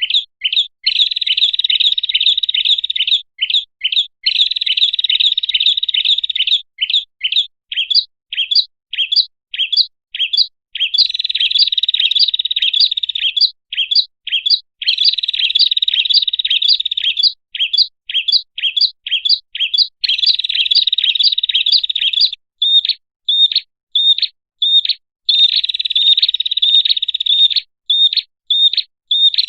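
Prinia (prenjak) lure-call recording: long stretches of dense, rapid chattering trill alternate with runs of separate sharp chirps, several a second, with no real pauses.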